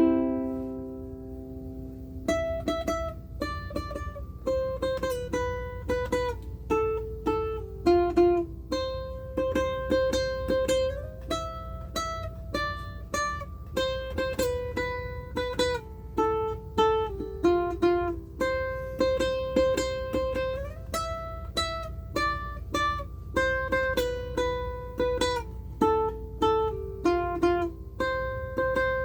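aNueNue UC-110 Green Bird ukulele playing a simple tune picked note by note. A chord rings out and fades at the start, and the melody comes in about two seconds in.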